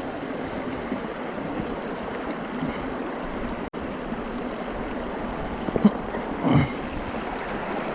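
Steady rushing of a river running high after floods. It cuts out for an instant about halfway through, and two short, louder sounds come over it about six seconds in.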